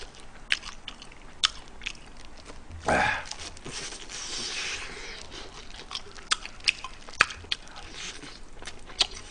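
Close-miked biting and chewing of crispy fried chicken: scattered sharp crunches of the batter, with a louder bite about three seconds in followed by a couple of seconds of dense crunching chews.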